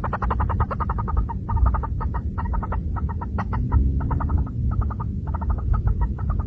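Chukar partridge calling, a rapid clucking chuk-chuk series that comes in quick clusters of several notes a second, over a low rumble.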